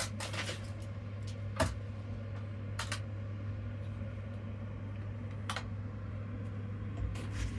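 A few sharp plastic clicks and knocks, a second or more apart, as a robot vacuum's dust bin is opened and emptied by hand, over a steady low hum.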